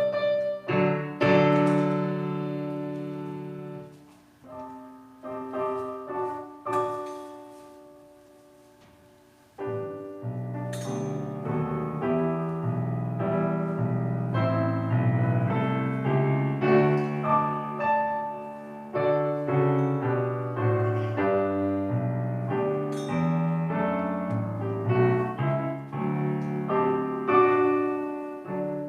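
Piano music: a few struck chords ringing out and dying away, then steady flowing playing from about ten seconds in.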